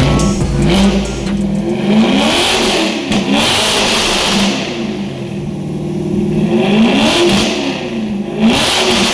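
Chevrolet Camaro SS's 6.2-litre V8 revving through an aftermarket cat-back exhaust, its pitch climbing and falling in several blips with a steadier stretch in the middle.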